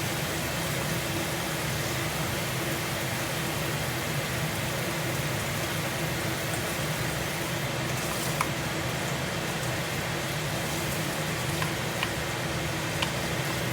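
Kitchen exhaust fan running steadily: a constant whooshing hum. A few faint clicks in the second half.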